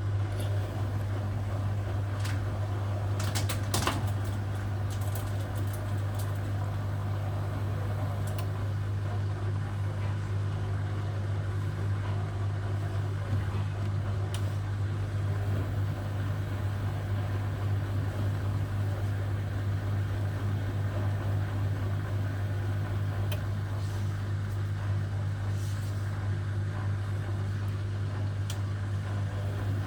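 Hotpoint Aquarius WMA58 washing machine running steadily at the start of a test spin, with an even low hum and a few light clicks in the first few seconds.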